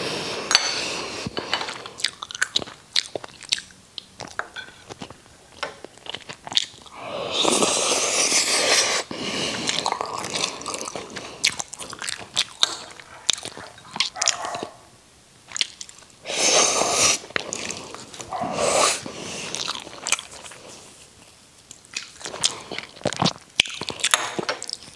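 Close-miked chewing and other mouth sounds of someone eating braised catfish and rice, louder in a few stretches, with frequent small clicks of a metal spoon against a ceramic rice bowl.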